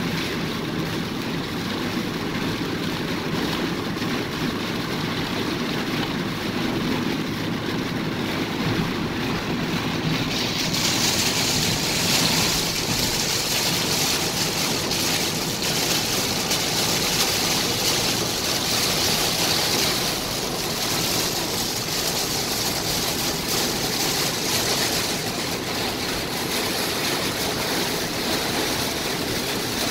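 Heavy rain pounding on a moving car and the water spraying up from its tyres, heard from inside the cabin as a loud, steady rushing noise. About ten seconds in, the hiss grows harsher and stays that way.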